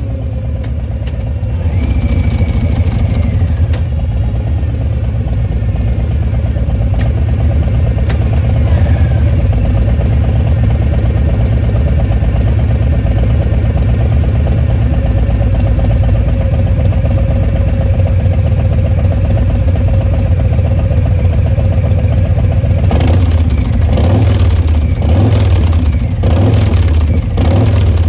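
Harley-Davidson Fat Boy 114's Milwaukee-Eight V-twin running through a Bassani Pro Street turnout exhaust, idling steadily, then blipped several times in quick succession near the end.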